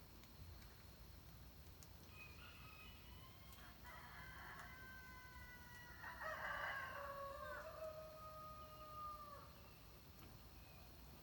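Roosters crowing faintly in the distance at daybreak: a weaker crow about two seconds in, then a louder crow about six seconds in whose last note is held for about three seconds, over a low steady rumble.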